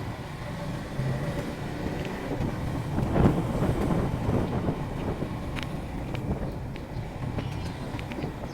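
Motorcycle engine running on the move, mixed with road and traffic noise, with a louder rushing swell about three seconds in.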